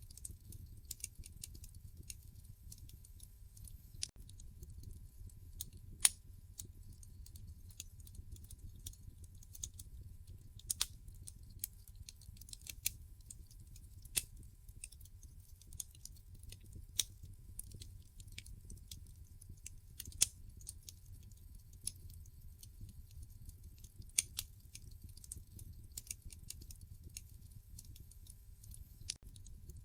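Wood fire crackling in a fireplace: irregular sharp snaps and pops, a few of them much louder, over a low steady rumble of the burning logs.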